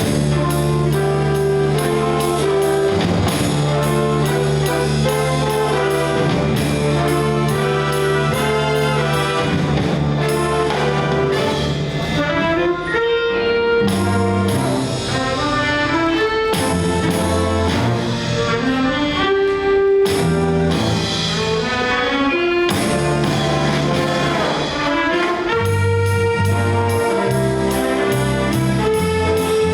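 High school jazz ensemble playing a brass-led piece, trumpets, trombones and saxophones over a steady beat.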